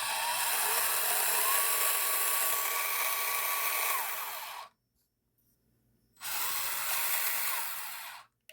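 Axial SCX24 RC crawler's electric motor and drivetrain whining at high wheel speed: the whine climbs in pitch, holds and falls away as the throttle is applied and released. It stops for about a second and a half and then runs again for about two seconds.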